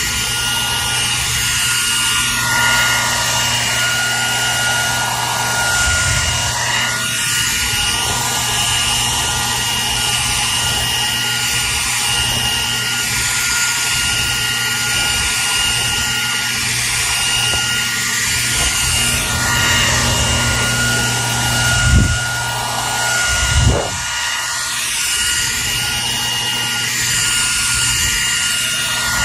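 Hair dryer running steadily: a constant rush of air over a low motor hum, with a steady high whine. Two brief low thumps come close together about three-quarters of the way through.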